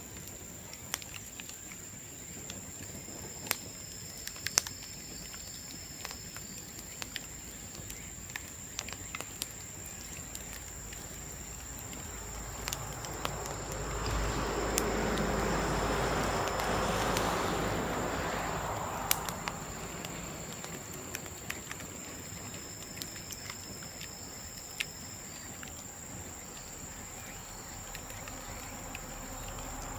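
Bamboo burning in an open bonfire, crackling with sharp scattered pops. A low rushing sound swells up for several seconds in the middle and then dies away.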